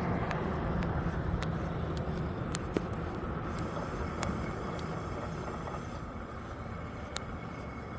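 Steady rumble of a slow bike ride, wind on the microphone and wheels rolling, with scattered small clicks and rattles; it fades gradually as the ride slows down.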